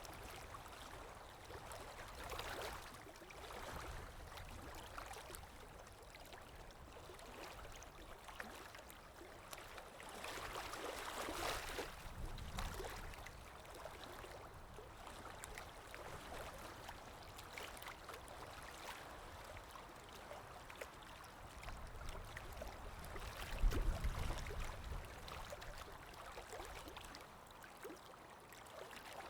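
Underwater ambience: a low-level, steady wash of moving water that swells now and then, with a brief deeper rumble about three-quarters of the way through.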